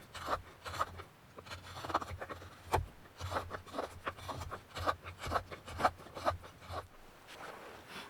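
A blade scraping and shaving wood as the hollow of a wooden kuksa cup is carved out, in short strokes about two a second that stop about seven seconds in.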